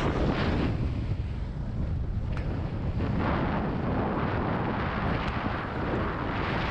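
Ford Ranger 4x4 driving along an outback track, its running noise mixed with heavy wind buffeting the microphone.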